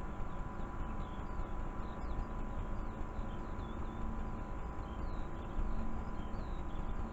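Small birds chirping faintly, in short scattered calls, over a steady background of tape hiss and low hum.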